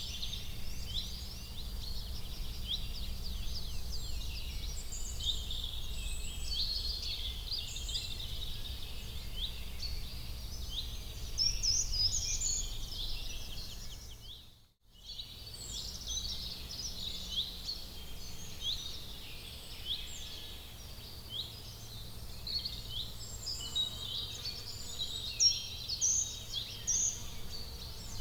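Many small birds chirping and twittering continuously over a steady low background rumble, with a brief cut-out about halfway through.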